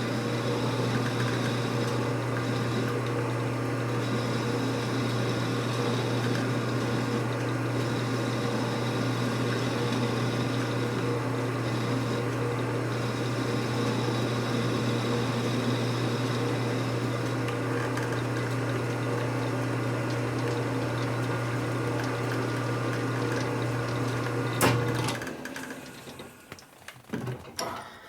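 A shop machine's electric motor running steadily with a strong low hum, switched off about 25 seconds in with a click, followed by a few light clicks and knocks.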